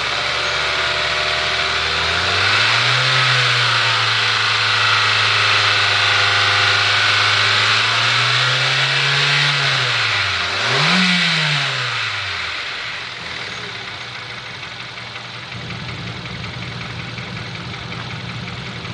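A 2013 Kia Soul's 1.6-litre four-cylinder engine is run and revved on test. It rises from idle about two seconds in and holds at raised speed for several seconds. It drops back, is blipped once more sharply, then settles to a steady idle for the rest.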